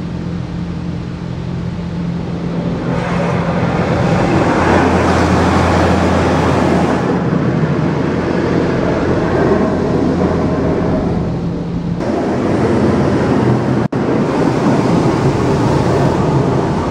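Automatic car wash heard from inside the car: water jets spraying against the car body over a steady machine hum, the spray getting louder about three seconds in.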